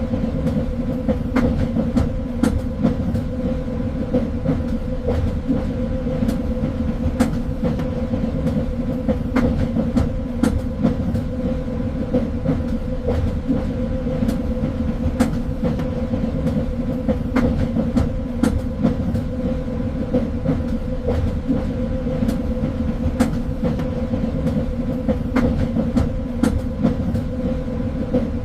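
Train running along the track: a steady low rumble with a constant hum, and irregular clicks and knocks from the wheels over the rails.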